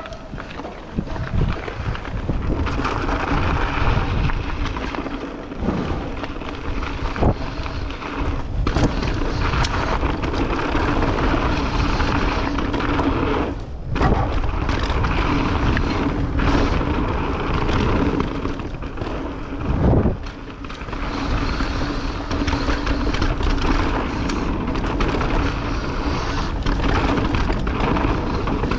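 Mountain bike riding down a trail: steady tyre and drivetrain noise with the bike rattling, wind on the microphone, and a few sharp knocks from bumps.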